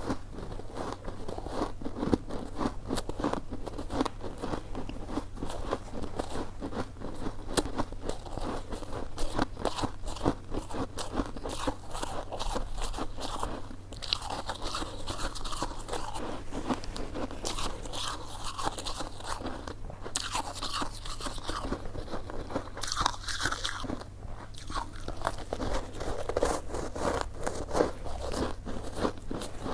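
Close-miked eating of coconut sticky rice cake: steady chewing and biting, heard as a dense run of small clicks and crackles.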